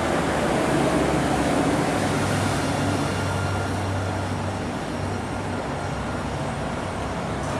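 Dubai tram running: a steady rumble with a low hum, loudest about a second in and slowly easing off.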